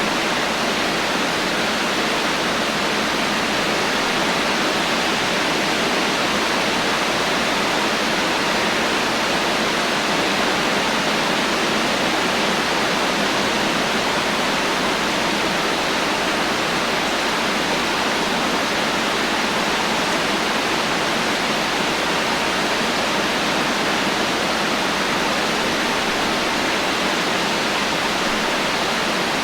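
Heavy rain falling steadily with no thunder: a dense, even hiss that does not change.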